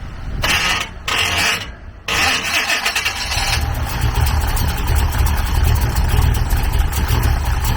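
1955 Chevrolet 210's engine being started: the starter cranks in two short bursts, the engine catches about two seconds in, runs fast for about a second and a half, then settles into a steady idle.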